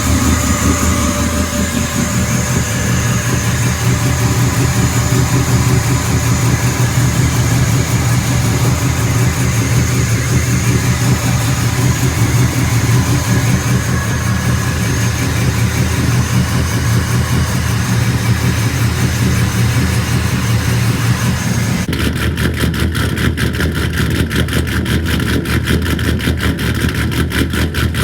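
Pickup truck engine idling steadily while it warms up after a cold start. About two-thirds of the way through, the sound changes abruptly to a rapid, even pulsing.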